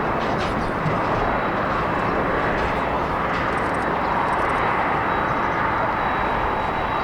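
Jet airliner on approach to land: a steady rush of engine noise, with a thin high whine coming in about halfway through.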